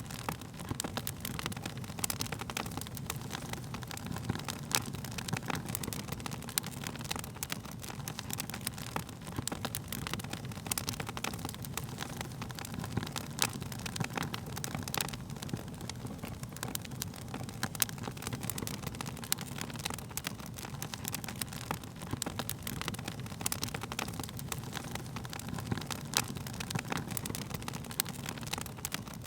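Wood fire crackling: frequent sharp irregular pops and snaps over a steady low rumble of the flames.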